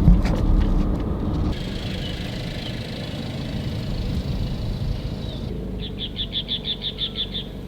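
Steady low rumble of a car on the move, which drops abruptly about a second and a half in. Near the end comes a quick run of about ten high chirps.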